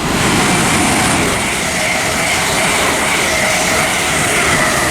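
Two coupled Class 350 Desiro electric multiple units passing through the station without stopping. Their wheels and air make a steady, loud rush, with a faint high whine held on one pitch throughout.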